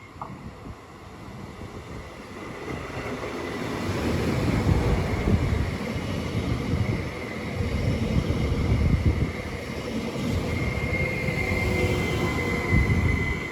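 A train passing through a station, its rumble and wheel noise building over a few seconds and then staying loud, with a thin high whine that grows stronger in the last few seconds.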